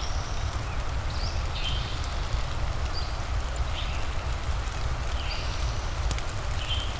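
Steady rain ambience: an even hiss over a low rumble. Short high chirps repeat about once a second, and a couple of sharp clicks come near the end.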